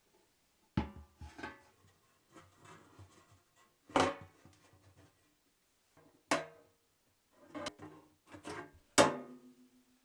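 Sharp knocks and clanks of a metal storage tin being handled, about six strikes with light rattling between them. The last and loudest knock rings briefly.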